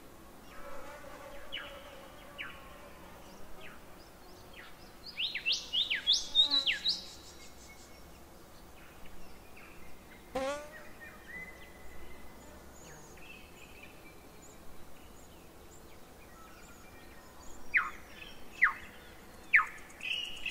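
Birds calling over faint steady outdoor background noise: a flurry of quick rising and falling chirps about five to seven seconds in, one long downward whistle around ten seconds, and three short falling whistles near the end.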